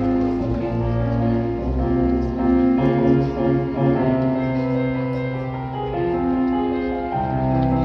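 Wind ensemble music with piano: slow, sustained chords that change every second or two.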